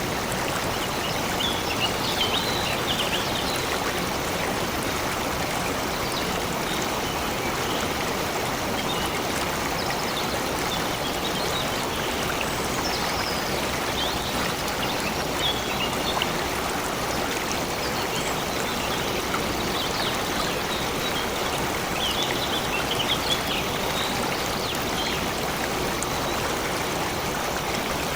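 Stream flowing steadily with an even rush of water, with brief, faint bird chirps now and then over it.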